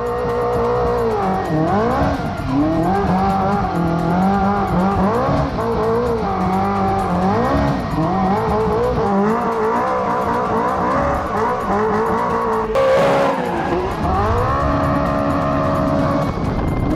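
Ferrari 458 Italia 4.5-litre V8 engine, swapped into a Toyota 86 drift car, revving up and down over and over while the car drifts, with tyre squeal. About 13 seconds in there is a sudden jump to higher revs.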